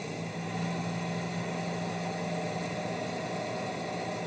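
Blackcurrant harvester's engine running steadily at idle, a low even hum.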